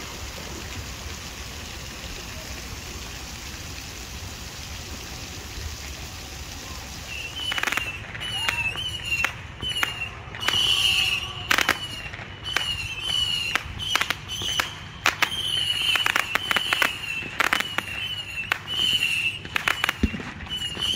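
A steady hiss for the first seven seconds or so, then fireworks going off: irregular sharp pops and bangs, several close together at times. A short high chirp repeats about once or twice a second over the bangs.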